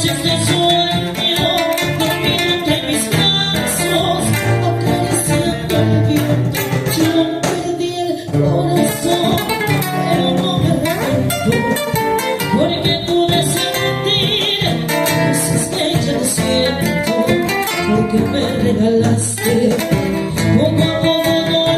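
Son band playing live, with guitars and a lead voice singing over the band.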